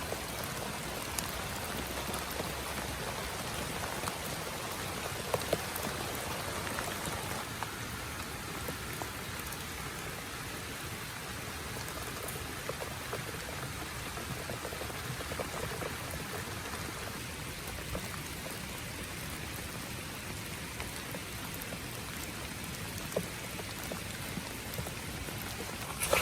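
Steady rain falling, with individual drops ticking sharply on a nearby surface now and then. The rain eases slightly about eight seconds in.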